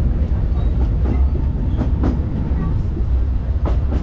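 Disneyland Railroad train rolling along the track, heard from aboard: a steady low rumble with a few irregular clicks and clanks from the wheels and cars.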